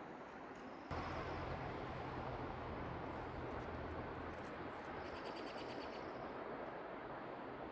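Steady outdoor background noise with a low rumble that comes in about a second in, and a brief faint run of rapid high ticks a little past the middle.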